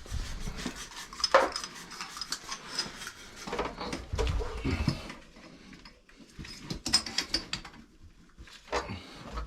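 Irregular metallic clinks and clatter from plumbing tools and copper pipe fittings being handled and set down, coming in several bunches.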